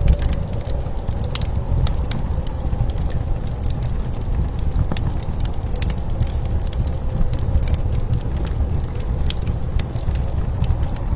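Wood fire crackling with scattered sharp pops over a steady low rumble of blizzard wind, which carries a faint howl.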